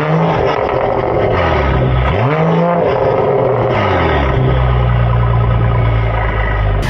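Mercedes-AMG E53's 3.0-litre inline-six, breathing through a catless downpipe and aftermarket exhaust with the valves open, revved up twice, then running at a steady engine speed.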